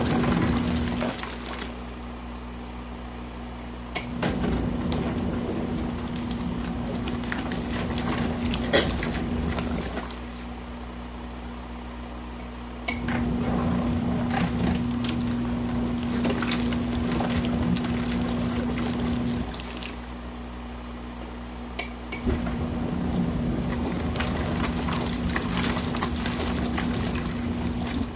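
Small RV washing machine agitating a load of jackets in a high water level: the wash motor runs in stretches of about six seconds, then pauses for about three, over and over. The water sloshes, with scattered clicks and knocks against the tub.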